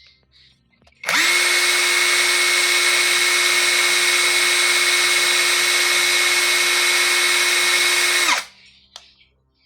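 Dagmara DTD173 cordless impact driver running at full speed for about seven seconds: it starts about a second in, holds a steady high whine over a dense mechanical rattle, then winds down and stops.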